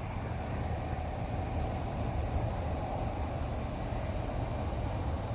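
A vehicle engine idling: a steady low rumble with a faint, even hum above it.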